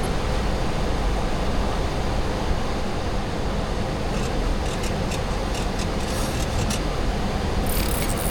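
Steady rush of airflow and engine noise in a Boeing 737-800 cockpit on approach, with a few faint ticks in the second half.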